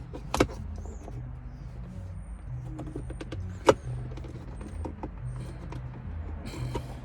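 Two sharp clicks, shortly after the start and about three seconds later, from hand work with screwdrivers on a car's center console trim. A faint low pulsing background, like music, runs underneath.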